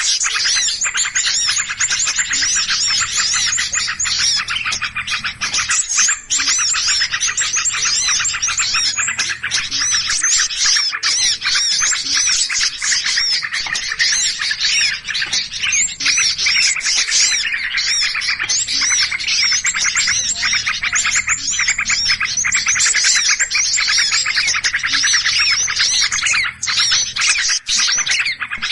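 Dense chorus of many small birds chirping and twittering rapidly and without pause: an agitated 'noisy birds' lure call used to draw small birds in for trapping.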